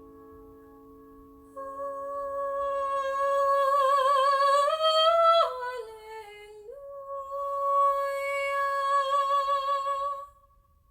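A solo singer holds a long note with vibrato over the dying ring of a piano chord. About four seconds in the voice climbs, then slides down and back up to the held note, which stops shortly before the end.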